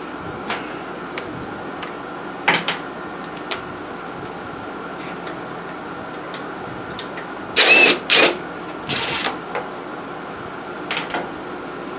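Hand tools working on a small engine's carburetor screws: scattered clicks and taps of a socket wrench and metal parts, with two loud scraping bursts about eight seconds in, over a steady background hum.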